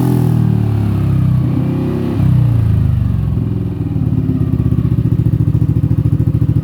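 Yamaha NMAX 155 single-cylinder scooter engine through a racing exhaust with no dB killer fitted, revs falling away, a short blip of the throttle about two seconds in, then settling into an idle with a rapid, even putter.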